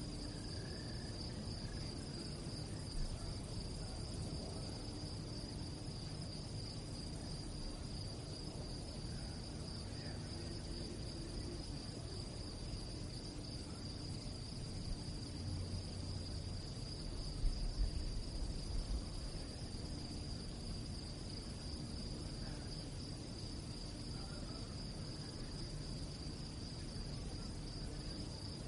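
Crickets chirping in a steady, continuous high-pitched chorus over a low background rumble, with a few brief low thumps about two-thirds of the way through.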